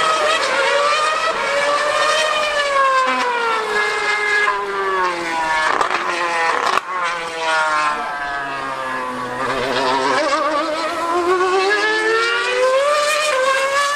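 2013 Formula 1 car's 2.4-litre V8 screaming at high revs, its pitch falling as it slows and climbing again as it accelerates. A few sharp breaks in the note around the middle mark quick gear shifts.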